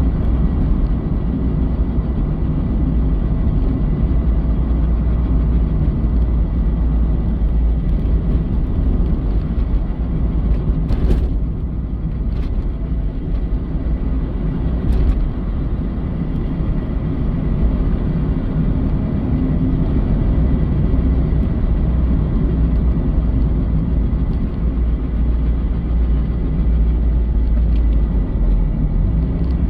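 Mazda Eunos Roadster (NA8C) running, a steady low rumble with a faint steady high tone and a few brief clicks around the middle. The car has an abnormal noise that the owner describes as something rubbing.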